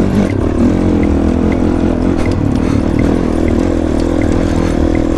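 Honda CRF450 dirt bike's single-cylinder four-stroke engine running steadily under way, with no big revs.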